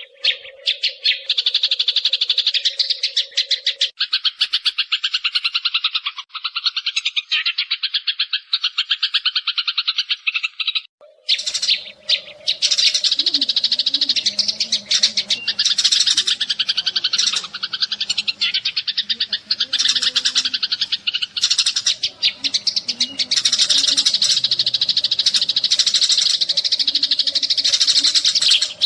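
A flock of sparrows chirping in a dense, rapid chatter: a decoy call recording used to lure sparrows for trapping. The chatter thins briefly about eleven seconds in, then comes back fuller.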